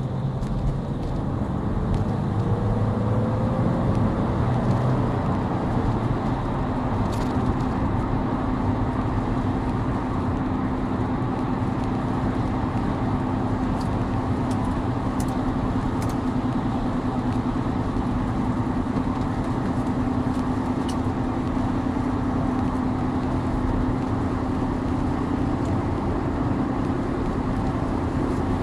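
A 2004 Chrysler 300M Special driving, with a steady rumble of road and engine noise and a steady drone settling in after a few seconds. The owner puts most of the noise on deformed tyres, and the car also has a loud exhaust leak on the passenger side.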